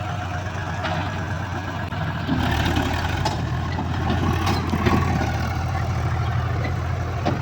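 Heavy diesel engine running steadily at a low, even hum, getting louder about two seconds in.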